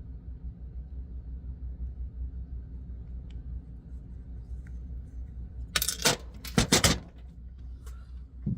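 Metal hand tools clinking sharply against a truck's U-joint, two quick clusters of metallic strikes about six seconds in, over a steady low hum. This is the work of extracting a sheared-off grease nipple with an easy out.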